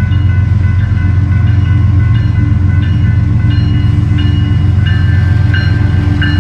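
Union Pacific manifest freight train running past: a loud, steady low rumble with a steady hum, and short high ringing tones that come and go, more of them in the later part.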